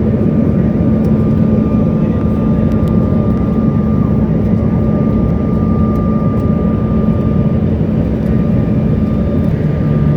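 Steady cabin noise inside a CRJ900 regional jet in flight: the constant rush of airflow and its rear-mounted jet engines, with a steady low hum and a faint thin whine above it.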